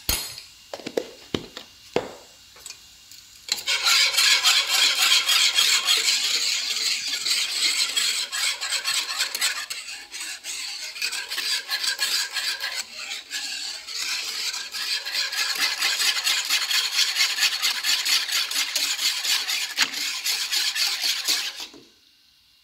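A utensil knocking a few times against a cooking pan, then stirring and scraping it rapidly and continuously for a long stretch as the sauce cooks. The stirring stops suddenly near the end.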